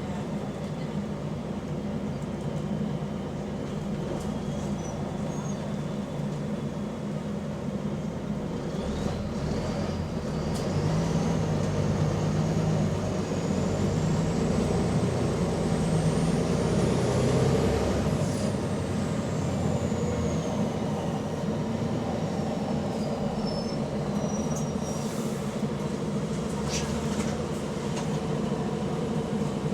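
Volvo double-decker bus engine running under load, on a bus with an exhaust leak: a thin whine climbs steadily in pitch as the engine grows louder for about ten seconds, then falls away as it eases off.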